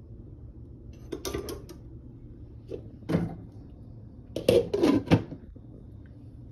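Short knocks and clatters of things being handled in a kitchen, coming in three bunches: about a second in, around three seconds, and a louder cluster between four and a half and five seconds, over a faint low steady hum.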